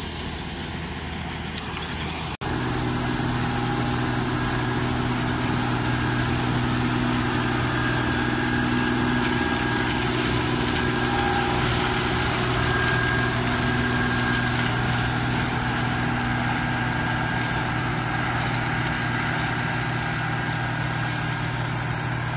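New Holland 8080 combine harvester running steadily, its engine and threshing machinery giving a continuous drone. An abrupt break about two seconds in, after which it is louder.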